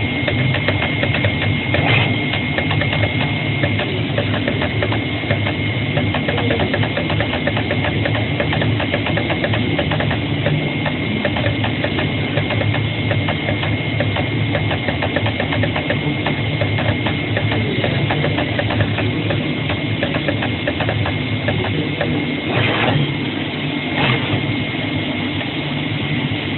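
CNC flatbed cutter-plotter running as it cuts a paper shoe pattern: a steady machine sound made of rapid ticking from the moving cutting head, with a constant high whine. There are two brief louder clicks near the end.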